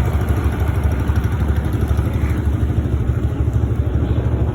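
Engine running steadily with a low, fast-pulsing rumble, heard while travelling.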